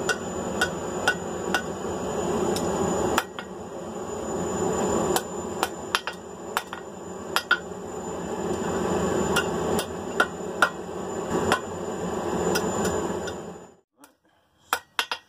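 Blacksmith's hammer striking hot mild steel on the anvil horn while scrolling it, in sharp ringing blows about one or two a second. A steady rushing noise under the blows stops suddenly about 14 seconds in, leaving a few lighter clinks.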